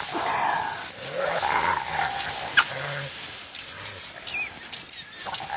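Animal calls from African wild dogs and spotted hyenas in a scuffle, wavering calls in the first two seconds, with small birds chirping high in the background.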